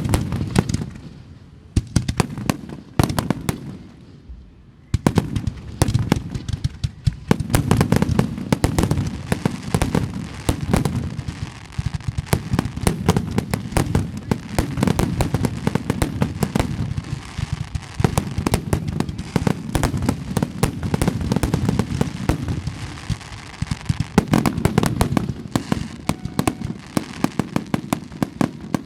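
Fireworks display: a few separate booms, then from about five seconds in a dense, rapid barrage of bangs and crackles that eases only near the end.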